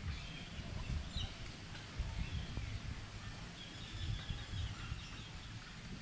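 Outdoor ambience: an uneven low rumble on the microphone, with faint small-bird chirps, a few short ones about a second in and a longer twitter near the middle.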